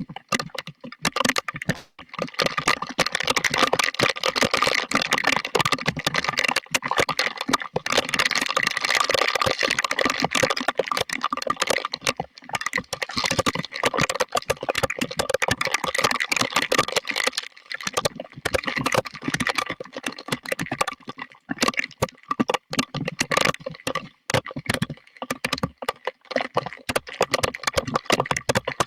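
Heavy thunderstorm rain pelting down, a dense crackling clatter of drops with brief dips in level.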